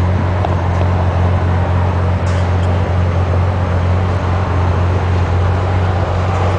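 Nissan 300ZX twin turbo's VG30DETT V6 idling steadily with a low, even hum.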